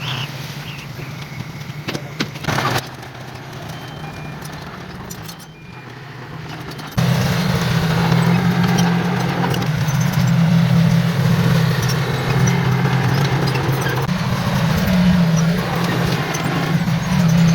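Heavy diesel earthmoving machinery running with a steady low engine hum. About seven seconds in, the sound jumps abruptly to a louder, closer engine and stays there.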